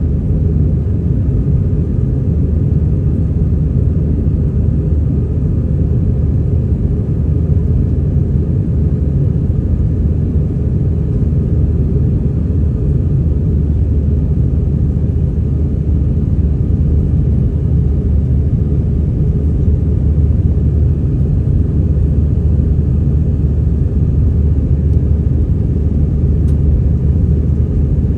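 Airbus A320-200 jet engines at takeoff power: a steady, deep rumble that holds an even level throughout.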